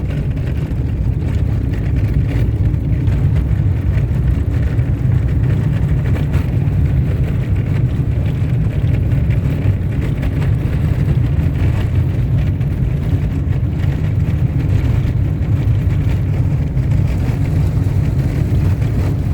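Car driving along a dirt road: a steady low rumble of engine and tyres.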